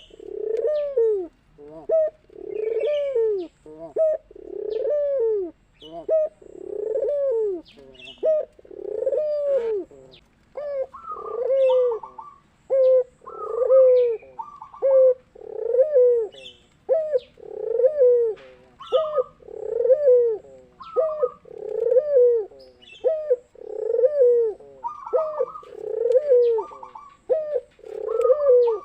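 Puter pelung doves (Barbary doves) cooing over and over, about one coo a second, each note rising and falling. From about ten seconds in a second, higher-pitched coo overlaps the first, as if a second bird is answering. This is the kind of cooing used to get a puter pelung to start singing.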